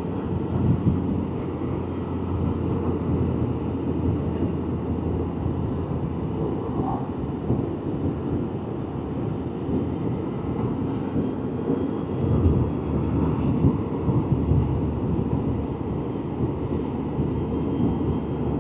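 Can-Am Spyder on the move: steady rumble of wind buffeting the rider's microphone mixed with engine and road noise.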